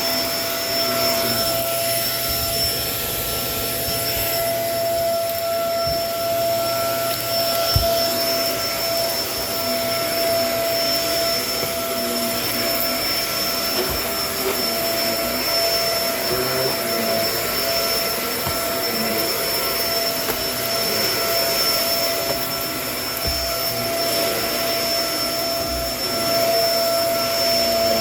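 Kenmore vacuum cleaner running steadily, a constant motor whine over the rush of airflow, with a few small clicks of debris being picked up.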